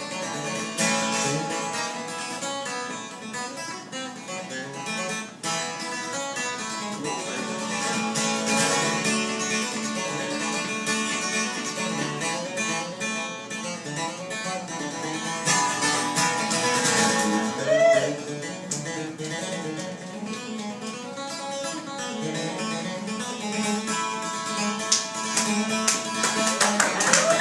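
Instrumental break of an acoustic folk song: acoustic guitar and a plucked-string lead playing, without singing.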